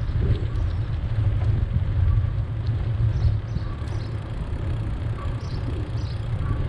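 Wind rumbling steadily on the microphone of a camera carried on a moving bicycle, with faint short high chirps now and then.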